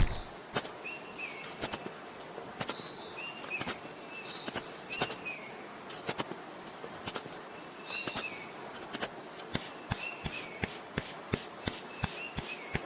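Small birds chirping in short repeated calls, with sharp clicks scattered throughout that turn into a quick, regular run of about three or four a second in the last few seconds.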